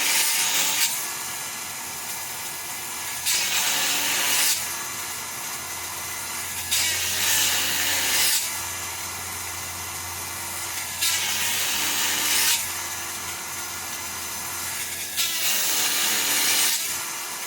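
Granberg 12-volt electric chainsaw chain sharpener running steadily, its grinding stone cutting into a chain cutter tooth with a harsh grinding rasp about every four seconds, four times over, the small motor humming on its own between passes.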